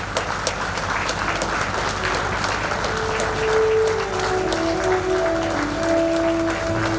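Crowd applauding. About three seconds in, music comes in over the clapping as held notes that step from one pitch to another.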